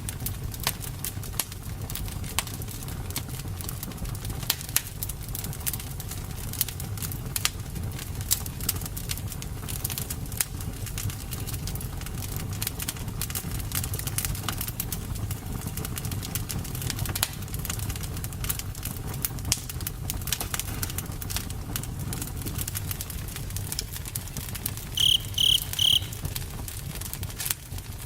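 Wood fire crackling, with many irregular sharp pops over a low steady rumble. Three short high chirps come close together near the end.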